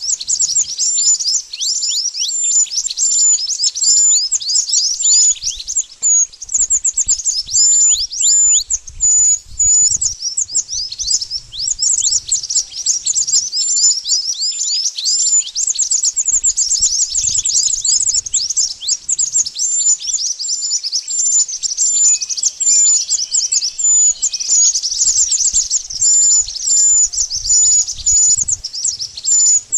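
Mantenan birds calling: a continuous stream of rapid, high, thin chirps, each a quick downward sweep, repeated several times a second without pause. A recording of the kind played as a lure call for bird trapping.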